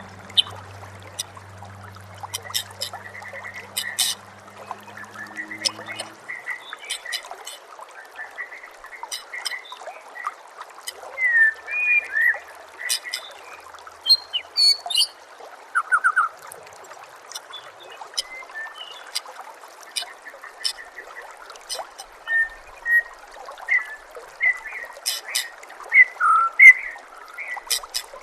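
White-rumped shama (murai batu) giving short chirps and sharp, high whistled notes over a steady trickle of running water. A low hum sounds for about the first six seconds, then stops.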